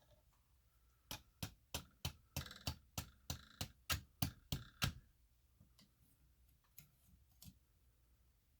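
A hammer tapping a steel chisel into a slab of fossil-bearing rock: a quick, even run of about fourteen strikes, three or four a second, each with a short metallic ring. A few lighter taps follow near the end. The tapping works along a fracture line to split the rock open.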